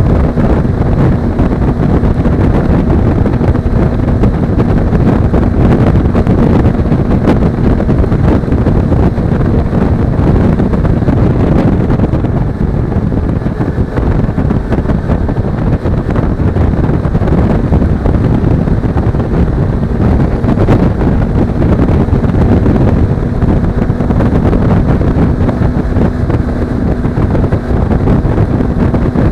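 Heavy wind rush on the microphone of a camera riding on a moving Suzuki V-Strom 250 motorcycle, over the steady drone of its parallel-twin engine.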